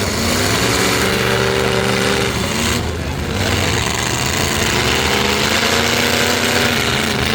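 Demolition-derby truck engines revving hard and holding. The revs ease off about three seconds in, then climb again, over a steady wash of engine and arena noise.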